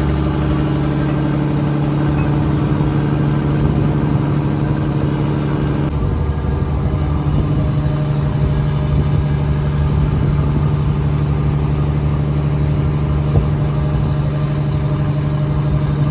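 Fishing trawler's diesel engine running steadily at a constant low drone. The engine note shifts slightly about six seconds in.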